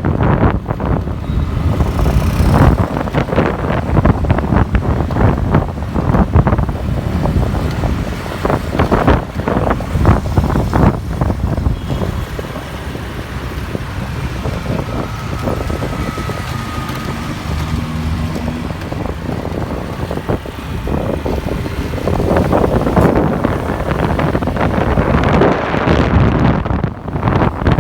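Wind buffeting the microphone on a moving motorbike, with road and traffic engine noise underneath. The buffeting eases in the middle and picks up again near the end.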